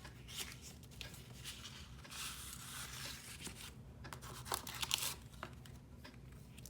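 Paper or plastic packaging being torn and crinkled by hand as a parcel is unwrapped: a stretch of rustling, then a cluster of sharp crackles about four to five seconds in.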